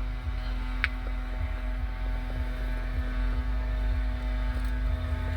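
Low steady rumble and hum of a car engine idling, heard from inside the cabin, with one short click about a second in.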